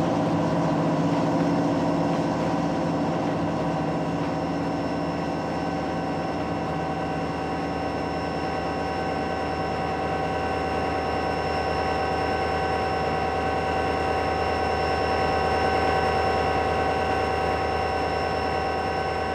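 Diesel locomotive running steadily: a low engine rumble with a steady high whine over it.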